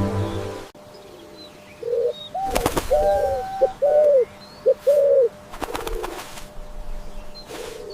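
A pigeon cooing: a run of about six or seven short, low, rounded coos over a few seconds. A brief sharp noisy burst comes about two and a half seconds in.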